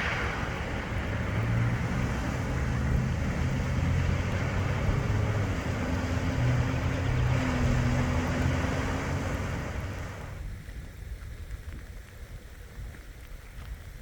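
A motor vehicle engine humming under a loud, steady rush of noise; about ten seconds in it cuts off abruptly to a quieter, faint background noise.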